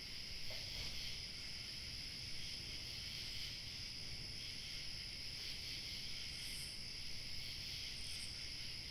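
Crickets chirping steadily in a dense chorus, over a faint low rumble of light wind.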